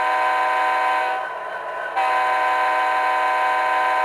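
Sound decoder in an HO-scale Athearn Genesis SD90MAC model locomotive playing its diesel air horn through the model's small speaker: a steady chord of several tones. The first blast stops about a second in, and after a short break a second long blast starts about halfway through and holds.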